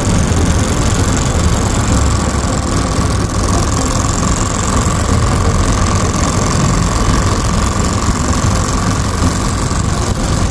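Small desktop model engine running steadily: a fast mechanical clatter over a low rumble, with a faint steady whine.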